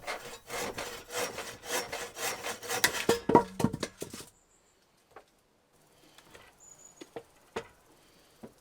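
Hand saw cutting wood with quick back-and-forth strokes, stopping about four seconds in; a few faint knocks follow.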